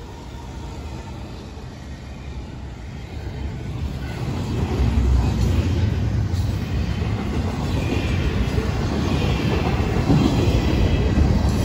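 Florida East Coast freight train passing close by: the trailing diesel locomotive goes by, then double-stack intermodal well cars roll past with a low rumble of wheels on rail that grows louder about four seconds in.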